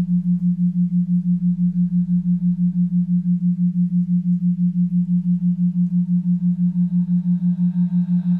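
A steady low pure tone pulsing evenly about five times a second, a meditation background tone. Fainter, higher ringing tones come in about five seconds in.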